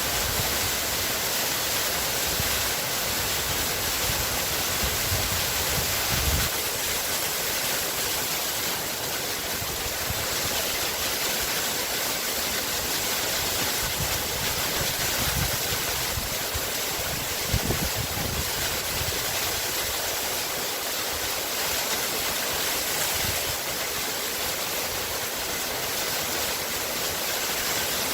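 Waterfall: a steady, even rush of falling water, with a couple of brief low thuds about six seconds in and again just past the middle.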